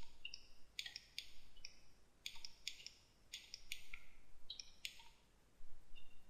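Computer mouse buttons clicking: about a dozen short, crisp clicks at irregular intervals, some in quick pairs.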